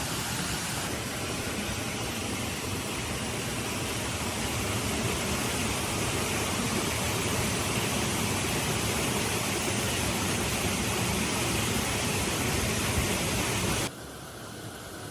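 Heavy rain falling steadily, a dense even hiss; about fourteen seconds in it drops suddenly to a quieter level.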